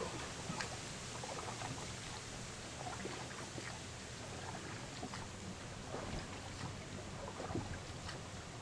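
A boat's engine running steadily with a low hum, with water splashing and lapping over it.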